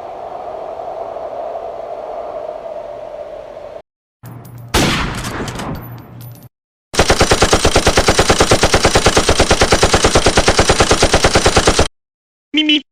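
Separate sound-effect clips in a row. The loudest and longest is rapid, evenly paced automatic gunfire at about seven or eight shots a second, lasting about five seconds and stopping abruptly. It is preceded by a steady hiss-like tone and a sudden loud hit.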